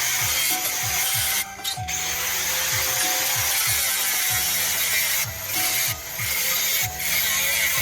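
Homemade grass chopper driven by a 200-watt washing-machine motor, running while its cutting blade shreds grass and leaves. It makes a harsh, steady hiss that dips briefly several times.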